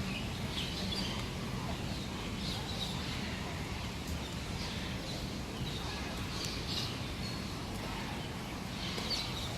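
Many birds chirping and calling in short, scattered notes over a steady low background noise.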